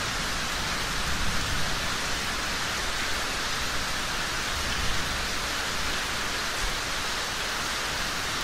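Steady rain falling, an even hiss with a few soft low bumps.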